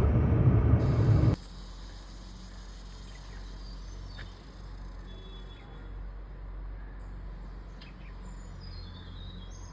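A loud low rumble cuts off abruptly about a second in. It gives way to quiet ambience: a low steady hum and a few faint, short, high bird chirps.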